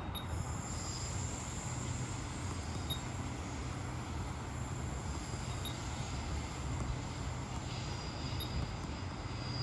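Steady rumble and hiss of a Queensland Rail electric passenger train, with a faint high whine above it.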